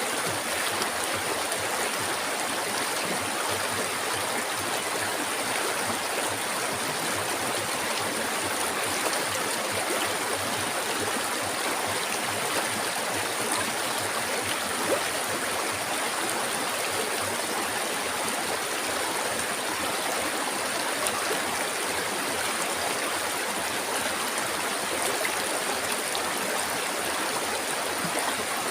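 River water flowing steadily over stones, a continuous even rushing and babbling with no pauses.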